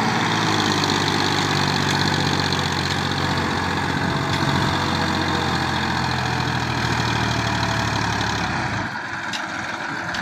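Tractor diesel engine running steadily. About eight and a half seconds in, the low engine sound drops away.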